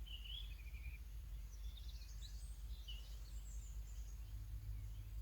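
Faint songbirds chirping and trilling, including a descending run of notes in the first second, over a low steady rumble.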